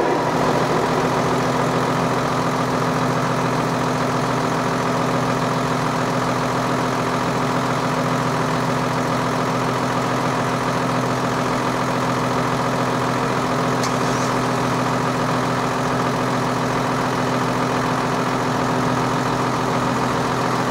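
Car engine idling steadily, an even hum that does not change.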